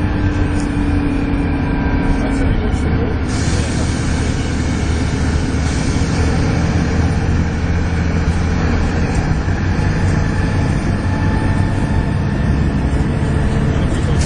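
Volvo B7TL double-decker bus's engine running hard inside the bus, a steady low engine note with the vacuum-cleaner-like 'hoovering' whine over it. A brighter hiss joins about three seconds in.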